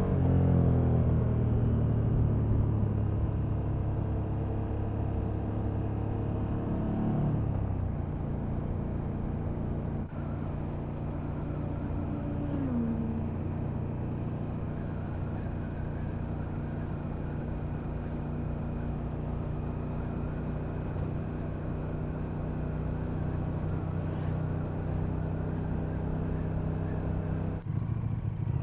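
KTM Super Duke's V-twin engine through its stock exhaust, riding along: the revs fall early on, drop again at about seven seconds, then hold steady at a lower pitch, with wind noise throughout.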